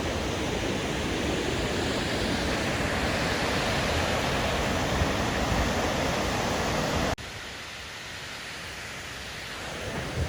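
Steady rushing of a waterfall. About seven seconds in it cuts off suddenly to a quieter, softer rush.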